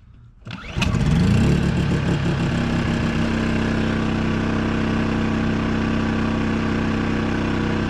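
Champion dual-fuel portable generator's single-cylinder engine starting on propane with the choke on: it catches about half a second in, runs loudest for a moment, then settles into a steady even run.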